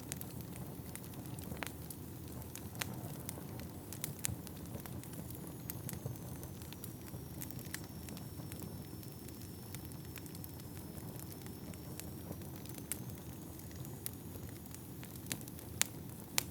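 Wood fire burning in a fireplace: a steady low rush of flames with scattered sharp crackles and pops from the burning logs, two louder pops near the end.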